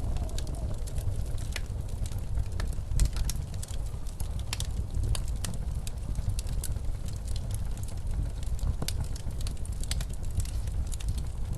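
Wood fire crackling in a fireplace, with frequent sharp pops scattered irregularly, over a steady low rumble of blizzard wind.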